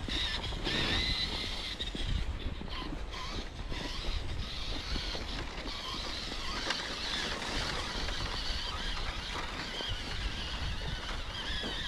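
Electric radio-controlled truck's motor and gear drivetrain whining as it drives, the high whine wavering up and down in pitch with the throttle over a low rumble.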